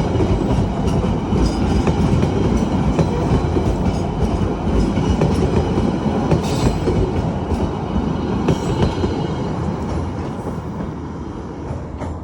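Malabar passenger train rolling along the rails, wheels clacking over rail joints in a steady rumble that slowly fades toward the end.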